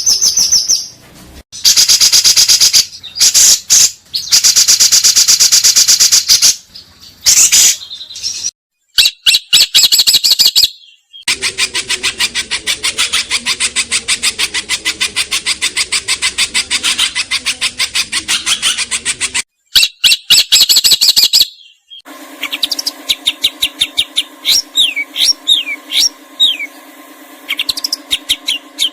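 Songbirds singing in a string of spliced recordings: loud, fast rattling and chattering runs of rapidly repeated high notes that break off abruptly between segments. Near the end come thin rising and falling whistled notes over a steady low hum.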